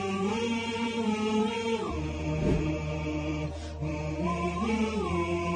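Chanted vocal music: long held notes that shift slowly in pitch, over a low steady drone that comes in about two seconds in.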